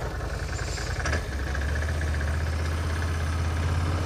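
ATV engine idling steadily: a low, even hum that settles in about a second in.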